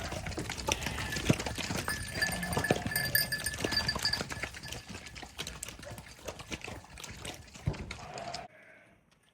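Sheep moving about at close range: a busy clatter of hoof knocks and scuffling that cuts off suddenly near the end.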